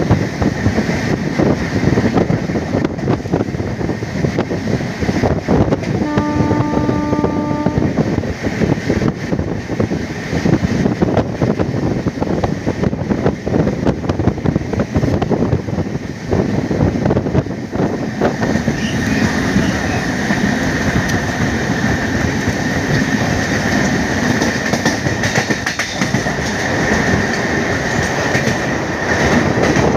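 Passenger train running at speed, heard from a coach: steady rumble and clatter of wheels over the rails mixed with wind. A locomotive horn sounds once, about six seconds in, for nearly two seconds. A high steady whine joins in from about two-thirds of the way through.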